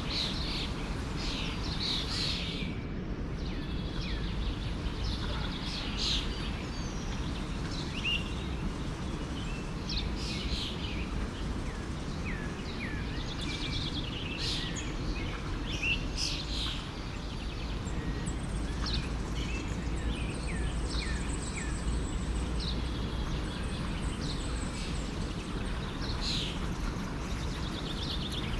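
Many small birds chirping and singing in quick, short notes over the steady rush of a forest stream.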